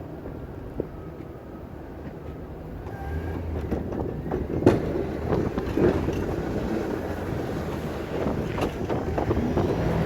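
An engine running steadily, louder from about three seconds in, with irregular clattering and scraping over it, typical of snow-clearing equipment at work.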